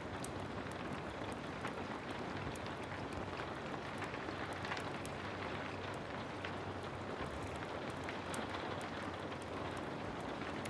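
Heavy rain falling steadily, mixed with a wood fire crackling, the crackles scattered as many small sharp ticks through the rain's steady rush.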